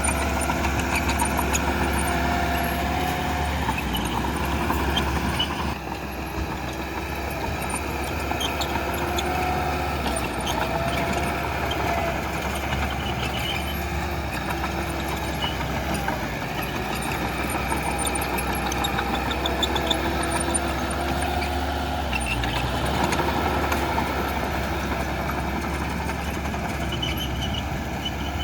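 Heavy diesel engine of a bulldozer running steadily under work, its pitch wavering a little, with faint high squeaks and clicks scattered through.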